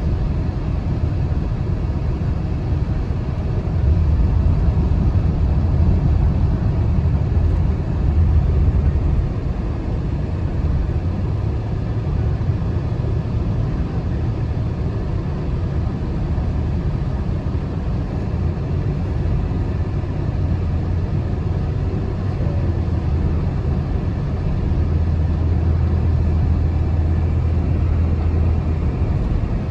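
Car driving, heard from inside the cabin: a steady low rumble of engine and tyres on the road, swelling slightly twice.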